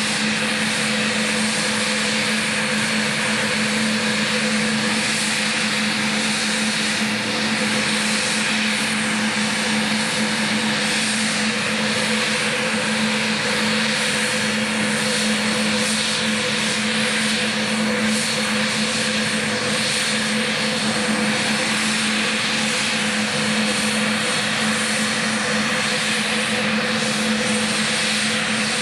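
Saab 105 jet trainer's twin Turbomeca Aubisque (Volvo RM9) turbofan engines running steadily on the ground: an even jet hiss over a constant low hum, with no change in pitch or loudness.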